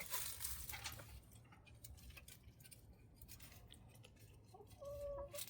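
Faint scratching and light ticking of a hen dust bathing in loose dirt, scratchiest in the first second. Near the end comes one short, steady, soft call.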